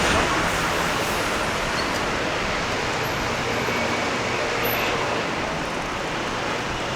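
Street traffic: a steady wash of passing vehicles and road noise, easing slightly toward the end.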